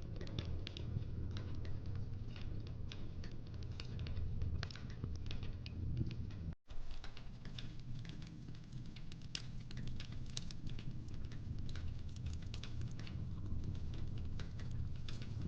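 Fireplace crackling: irregular sharp pops and snaps over a low rumble, cutting out for an instant about six and a half seconds in.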